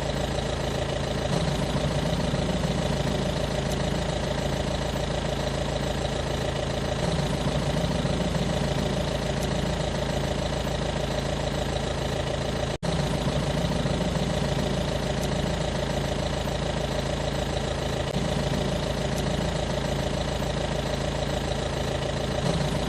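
Engine idling steadily, with slow swells in its low hum every few seconds and a brief sudden dropout about 13 seconds in.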